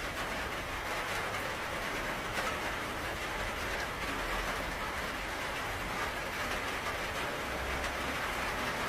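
Steady, dense rainfall: an even hiss of rain with scattered drops ticking on surfaces.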